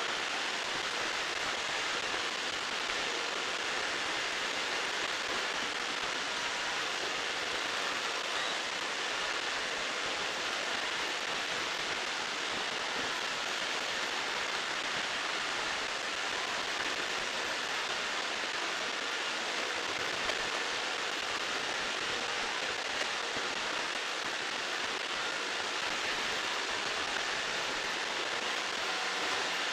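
Five Roomba robot vacuums (two 600-series, an 891 and two i7s) cleaning at the same time, making a steady, even whirring hiss from their vacuum fans and brushes.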